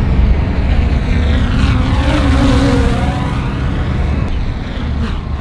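Loud motor noise of a vehicle passing close, with a heavy rumble underneath and a pitch that rises and then falls away in the middle of the pass.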